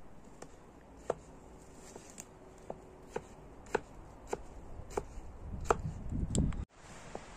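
Repeated light chopping strikes, about one every half second, with a low rumble building up just before they cut off near the end.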